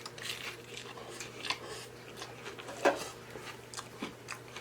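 Close-miked chewing of loaded tacos with soft wet mouth clicks and lip smacks, irregular, the loudest click about three seconds in.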